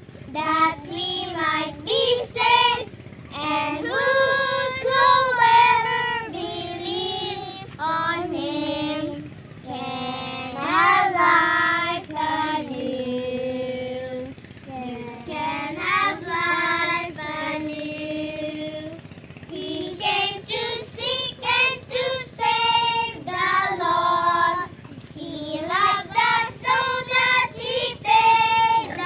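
A child's high voice singing a song: phrases of quick short notes alternating with long held notes.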